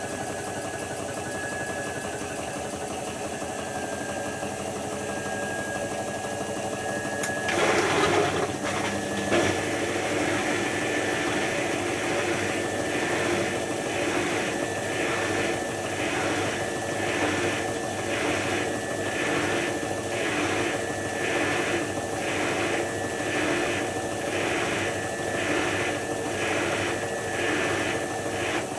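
Hotpoint HF8B593 front-loading washing machine running its synthetics rinse and spin: a steady motor hum, then a louder rush about a third of the way in, followed by a regular pulsing a little faster than once a second.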